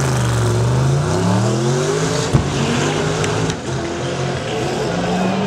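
Saleen S7 supercar accelerating hard off a drag-strip launch. The engine note climbs in pitch, drops back at each gear change (twice) and climbs again, with one sharp crack about two seconds in.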